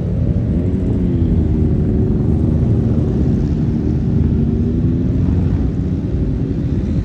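A car engine running as the car drives off. Its note dips in the first second, then holds fairly steady over a heavy low rumble, easing down slightly toward the end.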